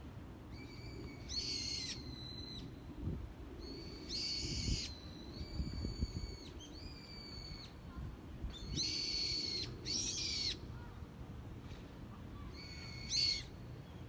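A bird calling repeatedly: about eight high, harsh calls, each half a second to a second long, with short gaps between. A low rumble with a few soft thumps sits underneath.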